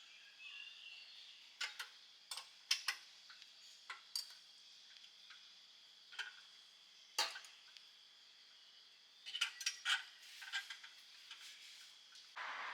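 Metal cooking utensils and hardware clinking and knocking: a dozen or so sharp, uneven clicks spread through the stretch, over a faint steady high-pitched hum. A louder hiss starts right at the end.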